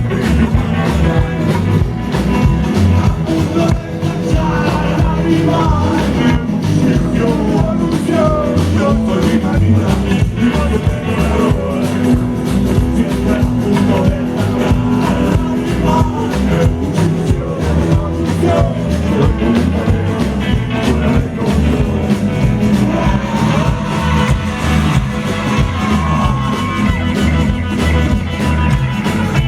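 Rock band playing a loud, steady stretch of the song between sung verses.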